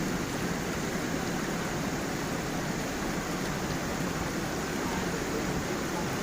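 Stream of water flowing over stones and small falls: a steady rushing and babbling that does not change.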